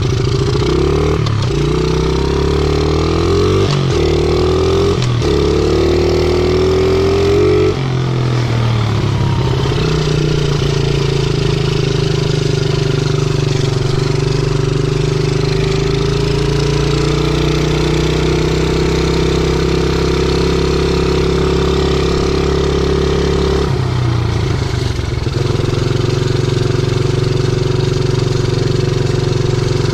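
50cc pit bike engine being ridden. Its revs climb and fall back several times in the first few seconds, then hold a steady, slowly rising note, with a short drop in revs about three-quarters of the way through.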